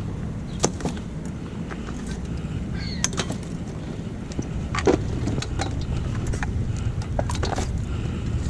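Steady low rumble with scattered light clicks and knocks; the loudest knock comes about five seconds in.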